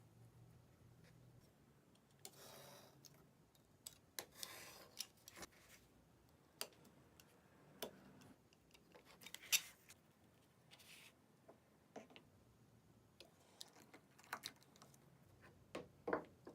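Faint, scattered clicks, taps and short scrapes of leather pieces and hand tools being handled on a workbench, with one sharper click about halfway through.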